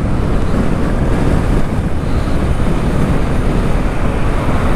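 Steady wind rushing over the microphone of a camera on a moving motorcycle, with the motorcycle's engine and road noise underneath.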